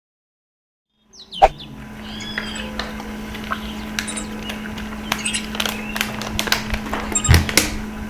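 A bird calling in short sharp chirps and a few louder falling calls, over a steady low hum, starting about a second in after silence.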